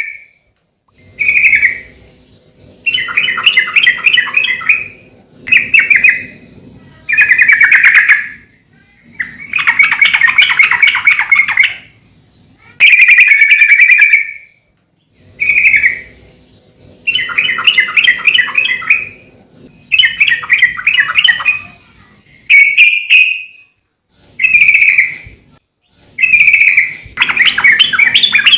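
Yellow-vented bulbul (trucukan) singing energetically: a string of loud, bubbly, chattering phrases, each one to two seconds long, with short pauses between them.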